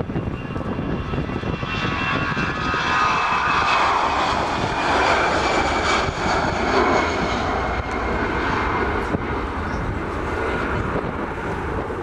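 Jet engines of an Airbus A319 airliner at takeoff power passing by, a loud rush that swells to its peak a few seconds in and then eases. A high whine slides slowly down in pitch as the aircraft goes past.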